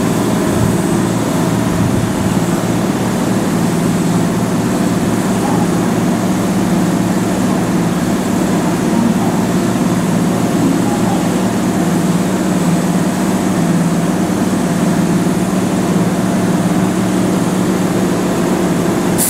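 Keihan 2600 series electric train standing at the platform, its onboard equipment running with a steady, even drone.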